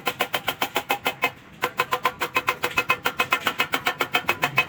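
Rapid hammering on stainless steel sheet, about seven or eight ringing metallic strikes a second, with a short pause early on.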